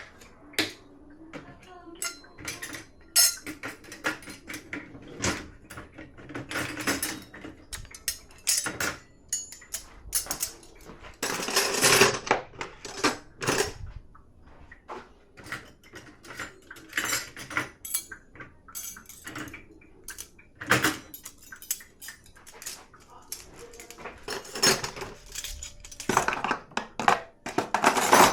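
Dishes and cutlery clinking and clattering in irregular bursts as they are handled at a dishwasher's racks, with a busier clatter about twelve seconds in and again near the end.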